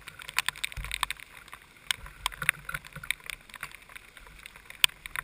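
Raindrops hitting the onboard camera's housing in heavy rain: irregular sharp ticks, with a few soft low rumbles.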